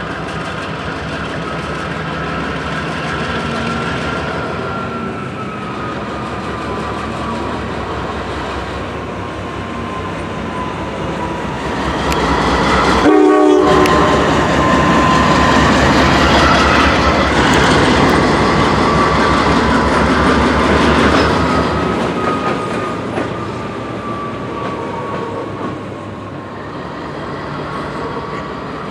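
A freight train rolling slowly through junction crossovers, led by a Norfolk Southern GE C44-9W diesel locomotive. The wheels give a long, slowly wavering squeal over the rumble and rail clatter. The sound swells about twelve seconds in as the train draws nearest, then eases off after about twenty-two seconds.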